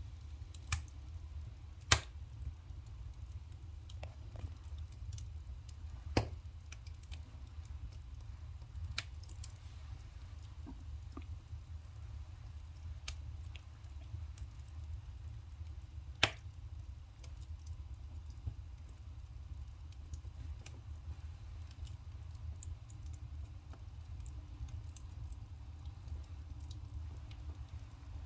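Burning firewood crackling with irregular small pops and three louder snaps spread through, over a steady low rumble.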